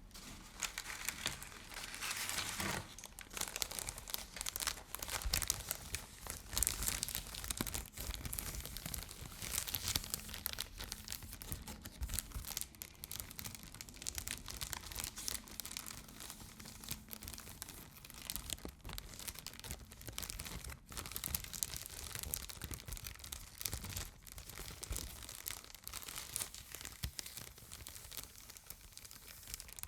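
Continuous close-up crinkling and rustling of a crinkly material being handled, full of fine irregular crackles.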